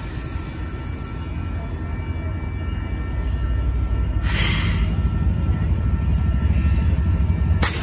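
Diesel locomotives of a Norfolk Southern freight train passing, a low engine rumble that grows louder over the second half. A brief hiss comes about four and a half seconds in.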